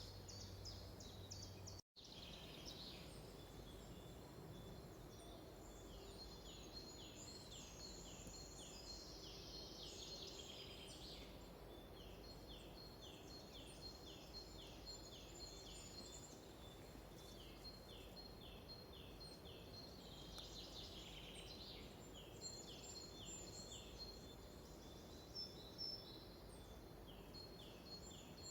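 Faint forest birdsong: runs of short, high, downward-sliding notes repeated a few times a second, with scattered chirps from other birds.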